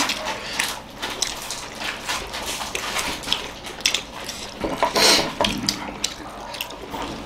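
Wet chewing and mouth sounds of several people eating steamed momos with dipping sauce, with small scattered clicks and one louder wet noise about five seconds in.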